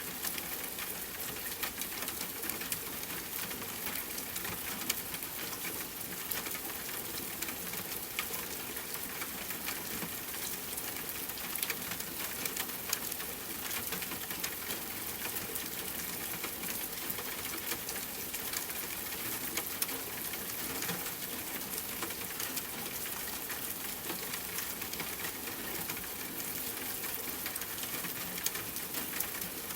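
Steady rain on a tent mixed with a crackling campfire: an even hiss full of small ticks, with occasional louder pops.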